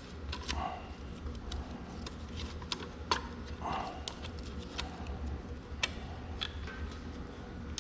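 Scattered light metallic clicks and taps of parts and bolts being handled while fitting a seal retainer onto a tractor axle housing, over a steady low hum.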